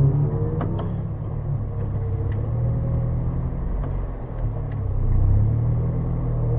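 Opel Astra rally car's engine idling with a low steady rumble, heard from inside the cabin, swelling slightly about five seconds in as the car creeps forward in the start queue. A few light clicks sound over it.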